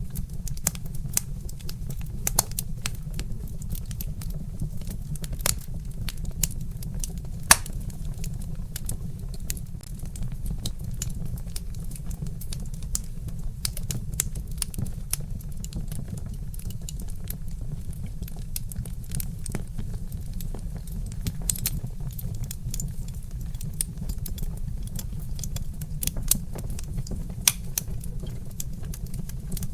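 Wood fire crackling: frequent irregular sharp pops and snaps from burning logs over a steady low rumble, with one louder pop about seven and a half seconds in.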